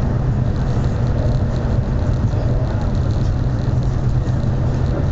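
Interior noise of a CRH380BL high-speed train running at speed: a steady deep rumble with an even rush of wheel and air noise, heard inside the passenger car.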